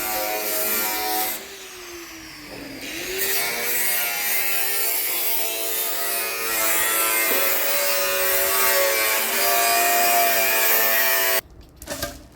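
An electric power tool's motor running with a steady whine. Its pitch sags about two seconds in and recovers, as a motor does under load. It cuts off suddenly near the end.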